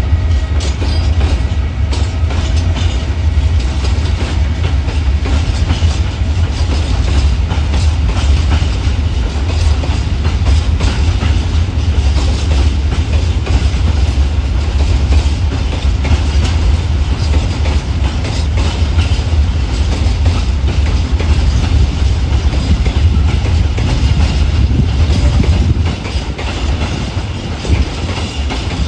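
Freight train of empty open coal wagons rolling past behind a Vectron electric locomotive, with a steady low rumble and the wheels clicking over rail joints. The sound eases a little near the end.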